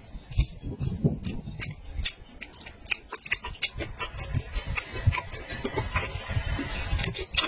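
Close-miked chewing of a person eating meat in big mouthfuls: a dense, irregular run of wet mouth clicks and smacks, several a second, over soft low thuds of the jaw.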